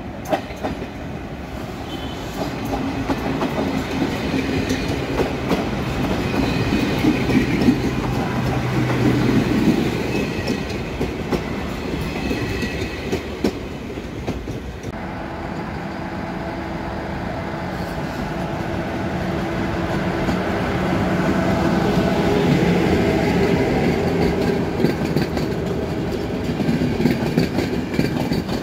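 Train running past at close range: wheels clicking over rail joints over a steady rumble and hum. The sound changes abruptly about halfway through.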